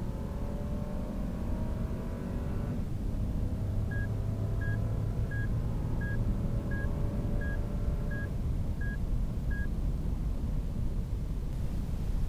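Lexus LX570's V8 engine under hard acceleration, its pitch climbing, falling back at a gear change about two and a half seconds in, then climbing again. From about four seconds in, a warning chime beeps nine times at an even pace, about every 0.7 seconds.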